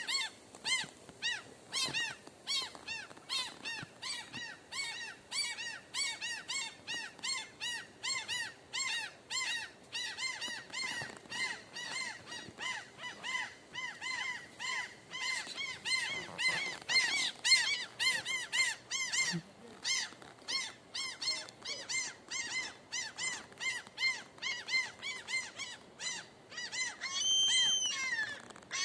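A bird calling one short chirp over and over, about twice a second, with a brief steady high whistle near the end.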